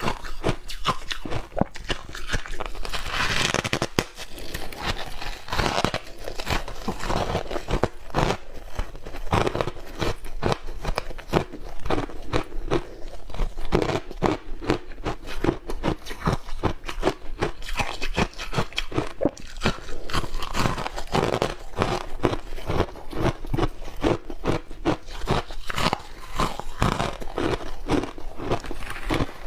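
A person biting and chewing ice coated in matcha powder, close to the microphone: rapid, continuous crunching and crackling of ice between the teeth.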